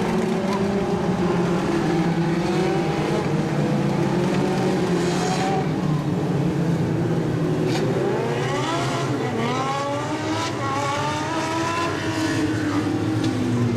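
Several Legends race cars running at high revs, their Yamaha motorcycle engines heard as overlapping engine notes at different pitches. Several notes rise a little past halfway through as cars accelerate.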